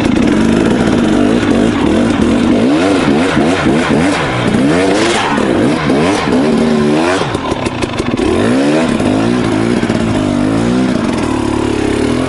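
KTM 300 XC two-stroke dirt bike engine revving up and down over and over as the throttle is worked, with a sharp climb in revs about seven seconds in.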